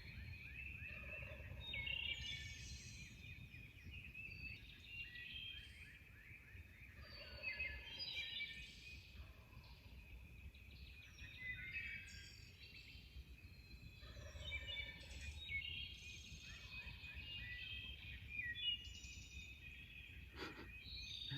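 Wild turkey gobblers gobbling faintly several times, a few seconds apart, from several directions.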